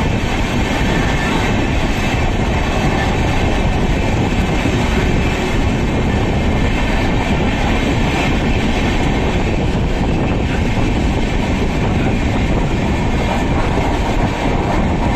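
The 12807 Samata Express passenger train running at speed, heard from an open doorway of one of its coaches: a steady, loud rush of wheels on the rails.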